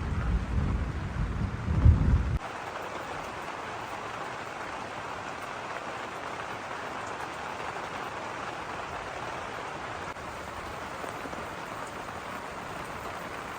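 Thunder rumbling over falling rain, the rumble cutting off suddenly about two seconds in; after that, steady heavy rain.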